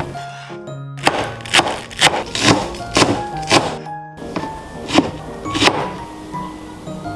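Knife chopping on a cutting board: about eight irregular, sharp knocks that stop about six seconds in, over background music.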